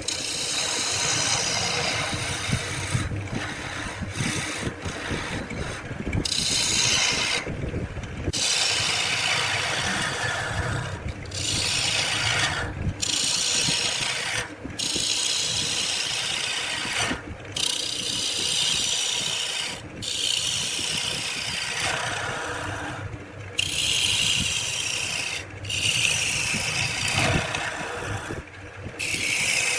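A tool rasping and rubbing against wood in long stretches, broken every few seconds by short gaps.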